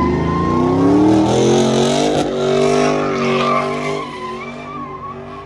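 Vehicle engine revving hard, its pitch held high with several rises and dips, then fading away over the last second or so.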